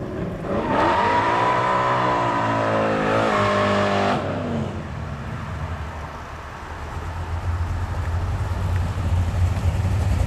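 A 1955 Chevrolet wagon's engine, running through a freshly fitted 3-inch Flowmaster Series 40 exhaust, launching at full throttle. A loud rev rises in pitch, drops briefly and climbs again about three seconds in, then cuts off sharply when the throttle closes about four seconds in. A lower exhaust rumble follows and grows louder as the car rolls closer.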